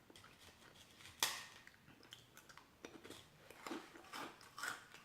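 Close-miked chewing and mouth sounds of a person eating, with a sharp crunch about a second in and soft wet clicks and smacks after it.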